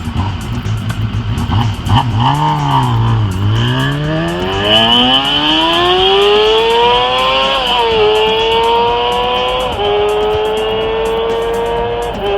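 Honda CBR250RR MC22's 250 cc inline-four engine accelerating hard at high revs. The pitch dips and comes back, then climbs steeply and drops sharply at three upshifts in the second half, each later gear climbing more slowly.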